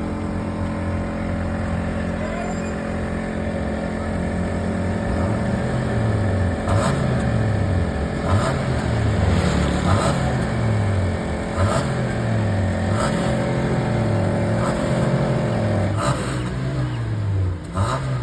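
Tenth-generation Honda Civic engine idling, then revved in short blips about every one and a half seconds, the revs falling back slowly after each one.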